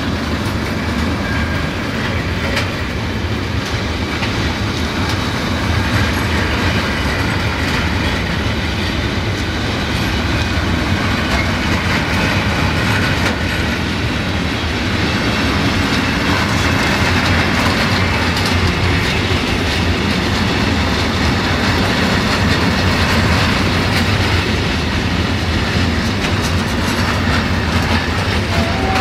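Covered sliding-wall freight wagons rolling steadily past on the track: a continuous rumble of steel wheels on rail with a repeated clickety-clack as the wheels cross rail joints.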